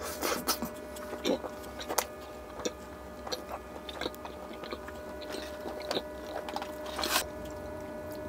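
Close-miked mouth sounds of a man eating a piece of butter chicken: wet chewing with irregular lip smacks and clicks, over a faint steady hum.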